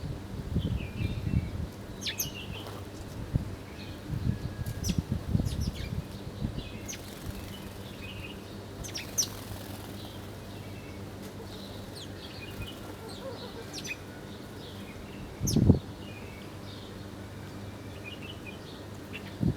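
Small birds chirping in short high calls, with bursts of wing flapping in the first few seconds. There is one loud thump about three-quarters of the way through, over a faint steady hum.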